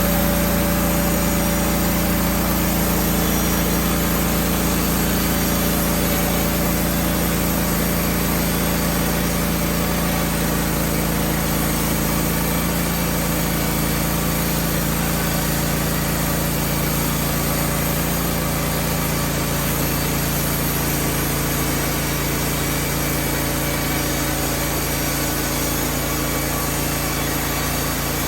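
Wood-Mizer LT15 band sawmill running steadily, its band blade sawing a pine log into 2x6 boards.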